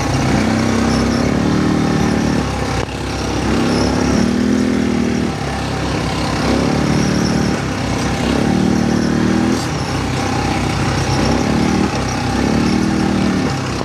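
Quad bike (ATV) engine revving in repeated swells, its pitch rising with each opening of the throttle and dropping back, about every two seconds, over a steady rush of noise.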